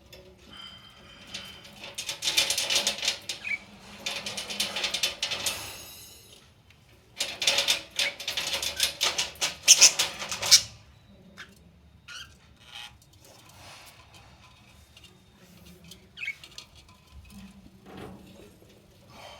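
Budgies in the cage making rapid, scratchy clicking in two spells of a few seconds each, then only faint scattered clicks.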